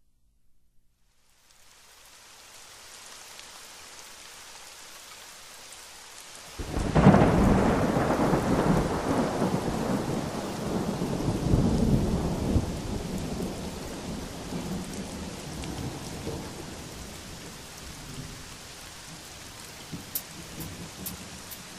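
Steady rain falling. About six seconds in, a sudden loud clap of thunder that rumbles on and slowly dies away over the next ten seconds or so, with the rain carrying on beneath it.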